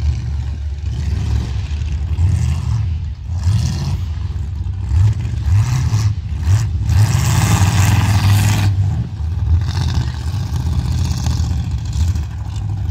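Several demolition derby cars' engines running and revving on a dirt track, loudest from about seven to nine seconds in.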